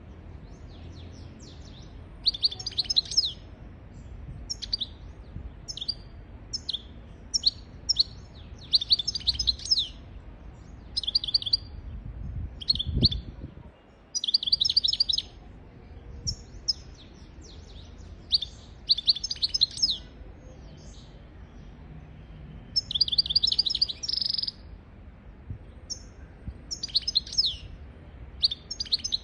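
European goldfinch singing: short, high-pitched bursts of rapid twittering and trills, repeated every second or two with brief pauses between them.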